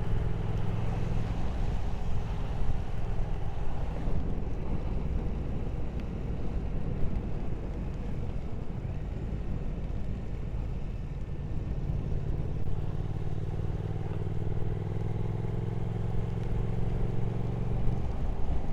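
Motorcycle riding along with the Triumph Speed Twin 1200's parallel-twin engine running under wind and road noise. Over the last several seconds the engine note climbs steadily as the bike accelerates.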